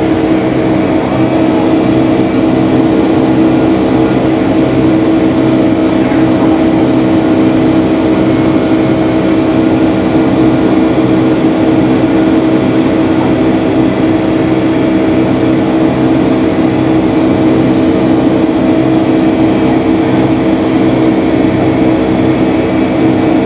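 Boeing 757-300's jet engines running steadily, heard from inside the cabin: a loud, even drone with several fixed humming tones over a rushing noise.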